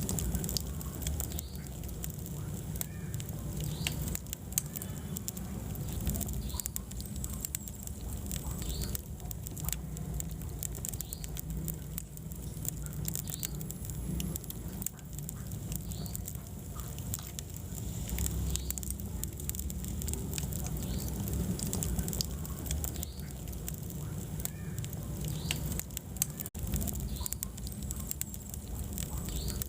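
Wood fire burning in a fireplace, crackling and popping in many irregular sharp snaps over a steady low rumble of flame.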